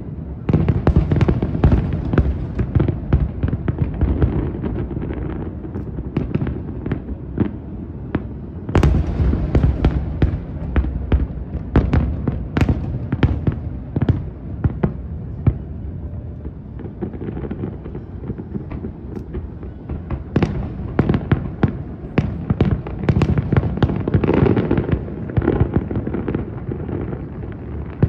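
Aerial fireworks bursting in quick succession: many sharp bangs and cracks over a constant low rumble of echoing booms, with the densest volleys about a second in, near the nine-second mark and again towards the end.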